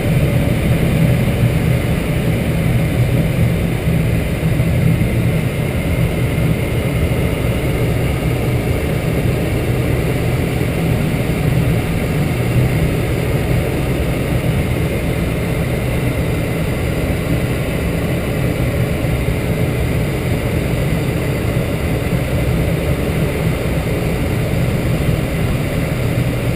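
Light aircraft's piston engine and propeller droning steadily in cruise flight, heard from inside the cabin.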